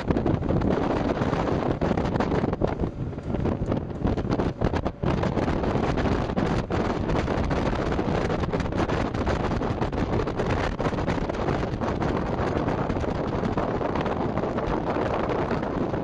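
Wind buffeting the microphone on a rigid inflatable boat under way, over the steady noise of its engine and the hull on the water.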